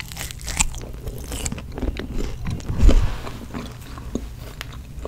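Close-miked biting and chewing of Chick-fil-A waffle fries: crisp crunches and wet mouth clicks right at the microphone, with a dull thump a little under three seconds in.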